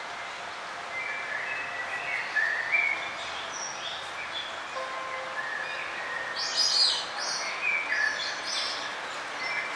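Songbirds chirping and singing in short high notes and brief trills, several calls overlapping, over a steady outdoor hiss. The loudest, highest-pitched burst comes a little past the middle.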